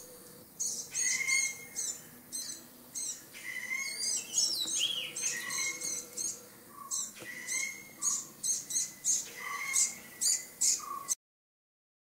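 A bird calling over and over in short, sharp, high calls, about two a second, stopping abruptly near the end.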